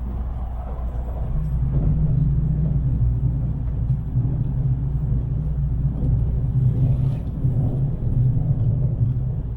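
Steady low rumble of a Tokaido Shinkansen train running at speed, heard from inside the passenger cabin.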